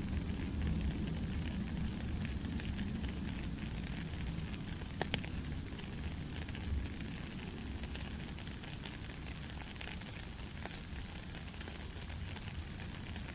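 Steady white-noise-style rushing, heaviest in the low range, with faint scattered crackles and a sharp click about five seconds in.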